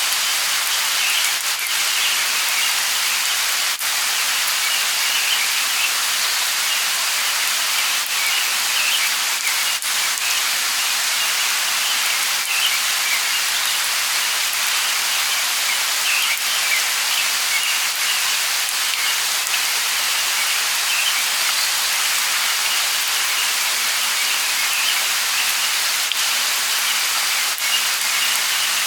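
Steady light rain, an even hiss, with scattered drop ticks. Bird chirps come now and then above it.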